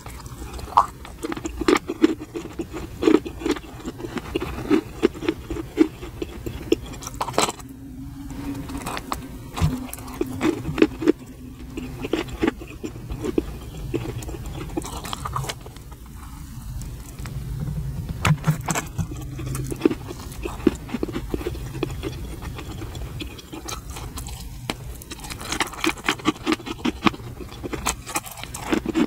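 Close-miked eating sounds: biting and chewing a soft marshmallow, with many short sticky mouth clicks and crackles.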